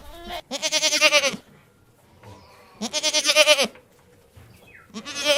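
Goat bleating: three long, quavering bleats, the last starting near the end.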